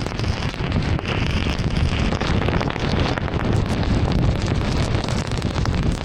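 Steady rush of a car driving in heavy rain: tyres hissing on the flooded road and rain pattering on the car, with a dense scatter of fine drop ticks over a low rumble.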